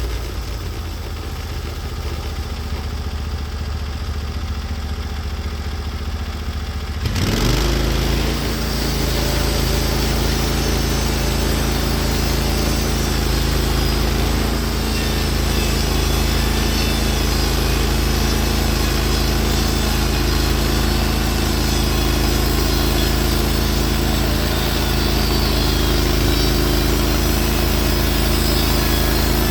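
Norwood HD36v2 bandsaw mill's gas engine running. About seven seconds in it comes up to speed and then runs steadily under load as the band blade saws through a spruce log.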